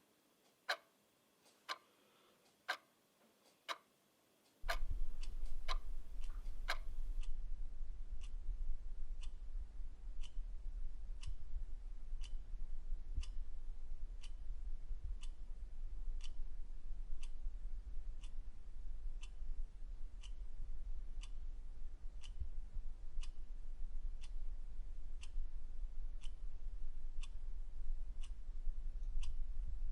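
Mechanical clock ticking, sharp ticks about once a second at first; about five seconds in a steady low hum comes in, and a couple of seconds later the ticking changes to a fainter, quicker beat of about three ticks every two seconds.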